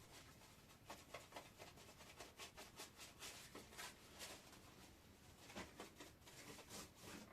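Near silence, with faint scattered rustles and light clicks, like small handling noises.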